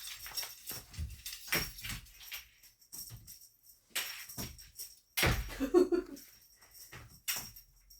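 A cat teaser wand toy rattling and rustling as it is swished about in short bursts, with a short pitched cry about five and a half seconds in.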